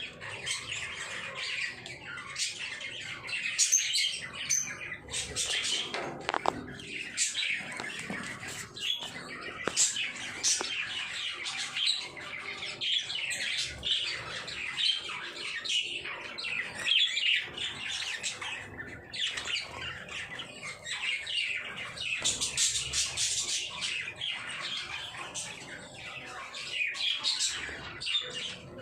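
A group of lovebirds calling without pause, a dense stream of short, high chirps and shrill calls overlapping one another.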